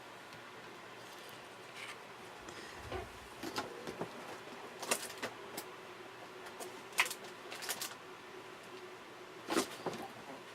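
Scattered light clicks and taps with soft rustling, from small paper pieces and embellishments being handled and gathered together on a craft table.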